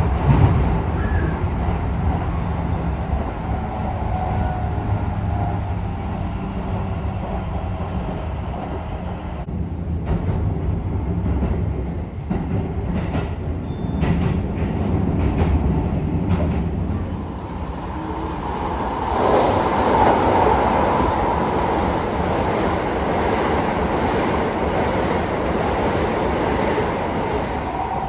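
Keisei 3000 series commuter train running, heard from inside the carriage: a steady rumble of wheels on rail with scattered clicks over the rail joints, then a louder rushing noise from about 19 seconds in.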